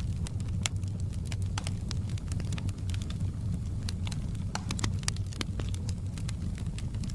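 Outdoor campfire burning, with a steady low roar of flames and frequent irregular crackles and pops of burning wood.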